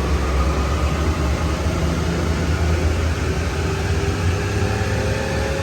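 Volkswagen Up 1.0 MPI three-cylinder engine running with a steady low exhaust drone through an exhaust diffuser at the catalytic converter. Its pitch begins to climb slowly near the end.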